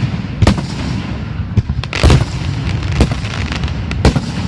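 Fireworks exploding in a display: sharp loud bangs about a second apart, with smaller cracks between them over a continuous low rumble.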